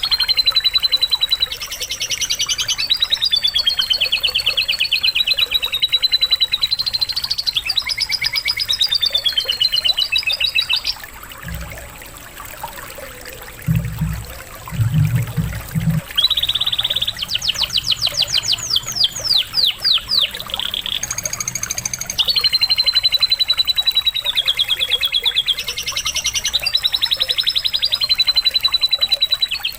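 Domestic canary singing long, fast trills and rolling phrases, a canary song filled with learned lovebird phrases, used as a master recording for training birds. The song breaks off for several seconds near the middle, where a few low thumps are heard. Running water trickles underneath.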